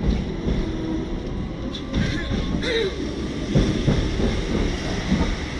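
Hong Kong double-decker electric tram running on its street rails: a steady low rumble with scattered knocks and rattles.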